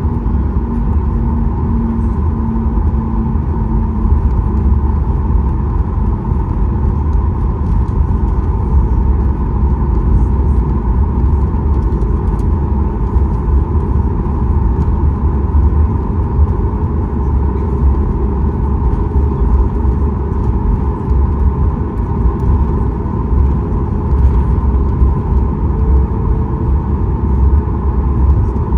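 Cabin noise inside a Boeing 737 MAX 8 on the ground after landing: a steady low rumble from the CFM LEAP-1B engines at idle and the airframe, with a faint steady hum that fades out about six seconds in.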